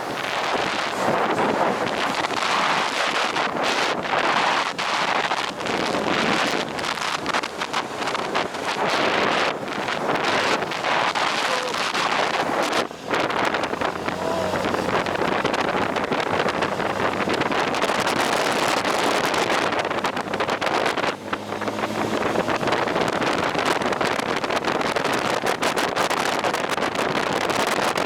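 Wind rushing over the microphone of a moving motorcycle, loud and steady with a couple of brief drops, with the engine running faintly underneath.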